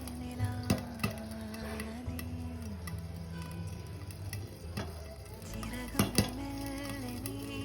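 Popcorn kernels popping: a few sharp, separate pops in the first second and two more close together about six seconds in, with a soft frying sizzle, over background music.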